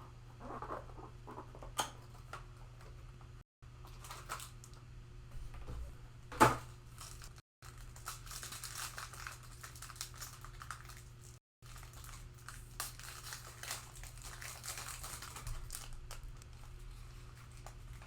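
Plastic shrink wrap crinkling and tearing as a sealed trading-card hobby box is unwrapped and opened, with scattered clicks and one sharp knock about six seconds in.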